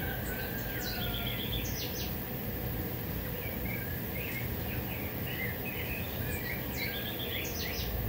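Birds chirping and singing, one repeating the same short phrase of quick notes twice, over a steady low background rumble.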